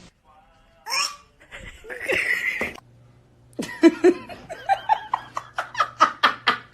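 A person laughing in a run of short bursts, about three a second, starting a little past halfway in. Two brief, shorter sounds come before it.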